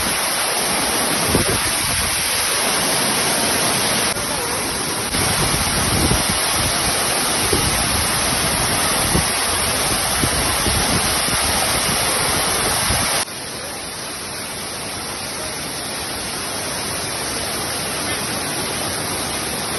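Waterfall rushing with a steady, full-range noise. The level drops suddenly about two-thirds of the way through and stays lower and steady after that.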